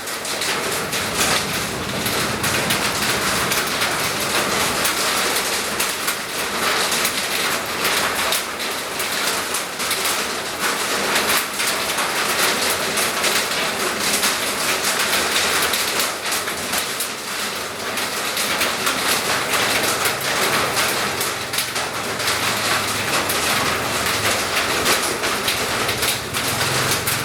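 Steady rain falling: an even hiss with many small drop impacts.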